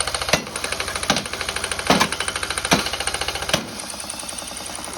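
Small single-cylinder lawn mower engine running, damaged by gunfire, with a loud knock about every 0.8 seconds over the fast even firing. The knocks stop about three and a half seconds in. The knocking is a sign of internal damage, which the owner takes for a bent connecting rod.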